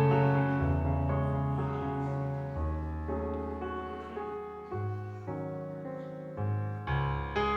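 Keyboard playing slow, held chords, each struck and left to fade before the next change, as an instrumental introduction with no singing yet.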